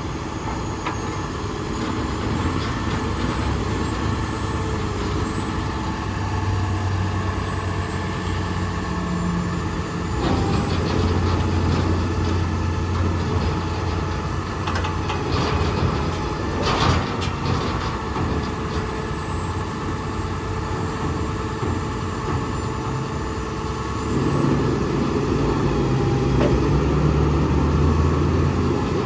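Freightliner M2 truck's diesel engine running, its pitch and level stepping up and down a few times. There is a short burst of hiss about two-thirds of the way through.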